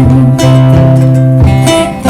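Live music: strummed acoustic guitar with low bass notes underneath, loud and continuous.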